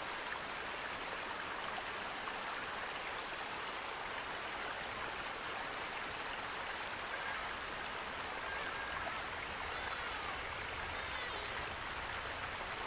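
Steady rush of flowing water from a stream or waterfall, with a few faint bird chirps over it around the middle and again near the end.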